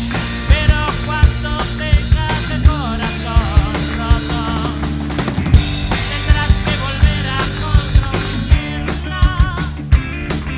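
Rock band playing, with a drum kit keeping a steady beat of kick and snare hits under bass and sliding, bending higher melodic lines.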